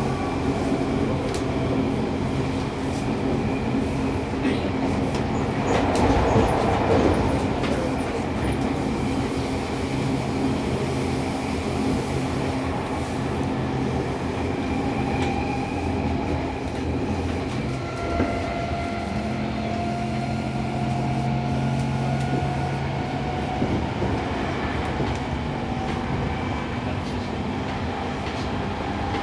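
Running sound inside a Seibu 6000 series electric train's motor car: the Toshiba IGBT inverter and traction motors humming in steady tones over wheel-on-rail rumble and clatter as the train runs at speed. A louder rush comes about six seconds in, and the motor tones shift to a new set of pitches about two-thirds of the way through.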